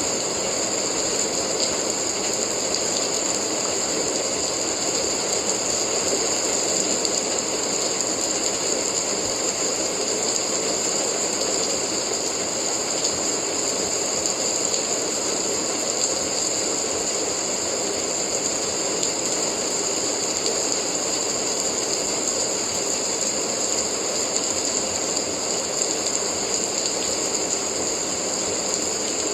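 Steady rain, an even, unchanging hiss with a bright high edge and no let-up.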